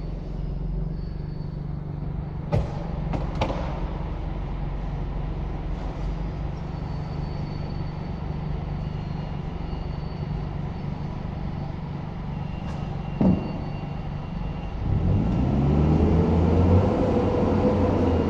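Clamp truck's engine running steadily, with a few sharp knocks, then rising in pitch and getting louder about fifteen seconds in as it revs up.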